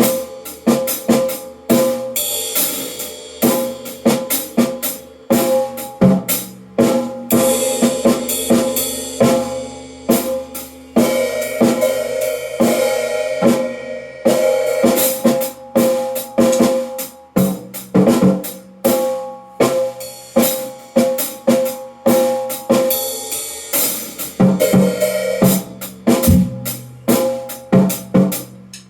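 Drum kit played freely, with a steady stream of snare and bass drum strokes, tom hits that ring on, and cymbals, in an uneven, unhurried rhythm. The playing thins out near the end.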